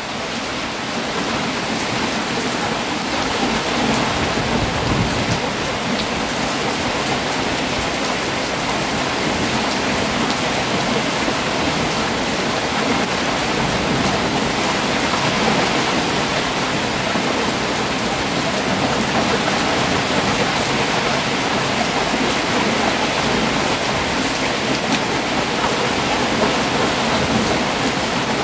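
Heavy rain falling steadily, an even hiss of rain on surfaces with a few sharper drop ticks.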